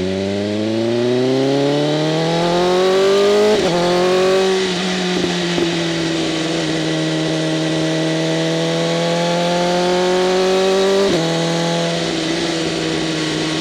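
BMW M1000RR's inline-four running through an SC-Project CRT exhaust with its flaps open, under way on the road. The engine note climbs steadily under acceleration, drops sharply about three and a half seconds in as the bike shifts up, then holds fairly steady with a slow rise before another sharp drop at a shift near the end.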